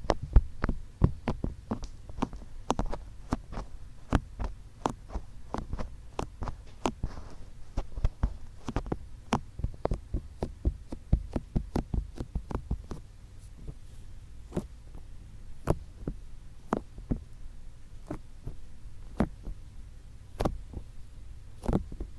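Fingertips tapping on the ears of an ASMR microphone, close and with a low rumble underneath. The taps come quickly at first, several a second, then thin out to about one a second after the halfway point.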